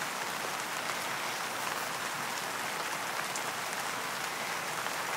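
Steady rain falling on the tent, an even hiss with faint scattered drop ticks.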